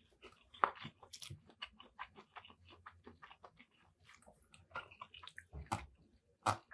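Close-miked chewing of fried rice with shrimp: a run of soft, wet mouth clicks and smacks. Near the end a metal fork scrapes into the rice in a foam takeout container, a few louder clicks.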